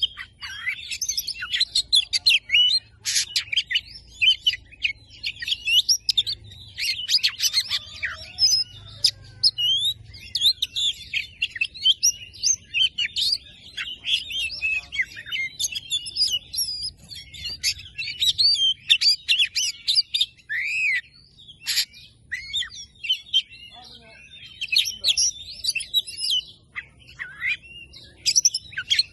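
Oriental magpie-robin singing a fast, busy song of varied chirps and whistles, phrase after phrase with only short breaks.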